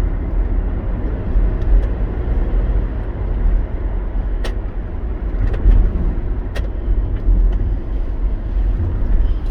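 Road and engine noise inside a moving vehicle's cabin: a steady low rumble, with a couple of brief sharp clicks about halfway through.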